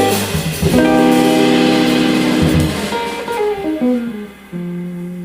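Jazz trio of guitar, double bass and drums ending a tune. A chord rings out over fading cymbals, a short falling run of single notes follows about three seconds in, and a final note is held and left to die away.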